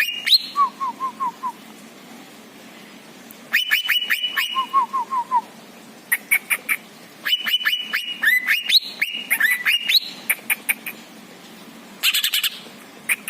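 Songbird song in repeated phrases of quick down-slurred whistles mixed with very high sharp chips. Twice there is a short run of five lower, falling notes, and there are brief pauses between the phrases.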